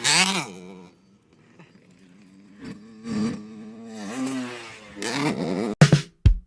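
Dirt bike engine revving, its pitch swinging up and down, then fading away to near silence; it revs again more faintly a couple of seconds later. Near the end the sound breaks up in a few abrupt choppy cuts.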